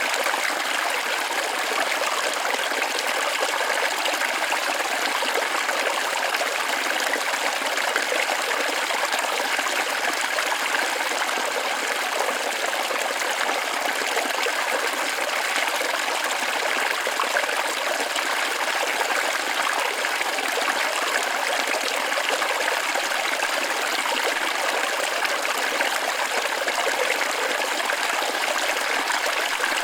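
Waterfall running steadily: an even, unbroken rush of falling water, mostly in the middle and high range with little deep rumble.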